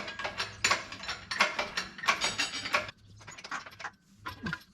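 Hand tools working on a Cummins C160 diesel engine during teardown: rapid metallic clicking in dense bursts, stopping about three seconds in, with a few fainter clicks after.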